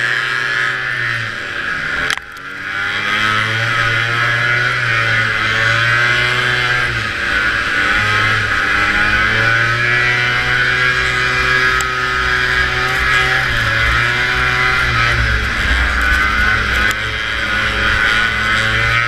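Vintage two-stroke snowmobile engine running hard, its pitch rising and falling with the throttle. About two seconds in it drops off sharply for a moment, then picks back up.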